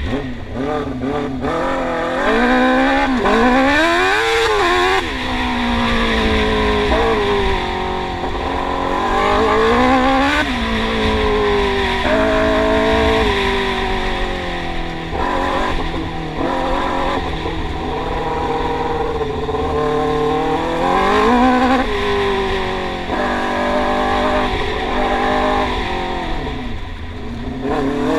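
Yamaha R6 inline-four engine in a YFZ450 quad revving hard, its pitch climbing over a few seconds and then dropping, again and again as the throttle is worked.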